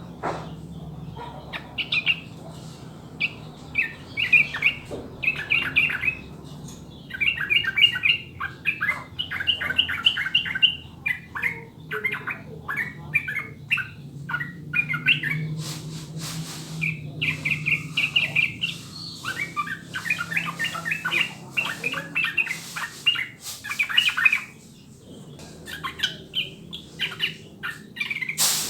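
Yellow-vented bulbul (trucukan) singing long runs of fast, bubbly chattering notes, broken by short pauses. A faint low hum runs underneath.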